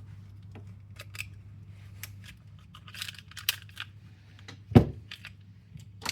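Clicks, scrapes and light taps of an airsoft rifle's parts being worked loose by hand during disassembly, with one heavier knock a little under five seconds in.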